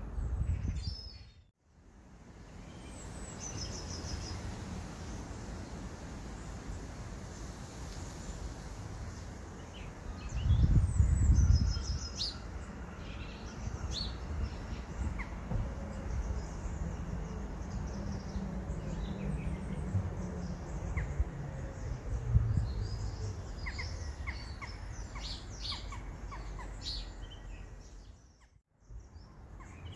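Garden birds chirping and calling over a steady outdoor background, with a louder low rumble about ten seconds in.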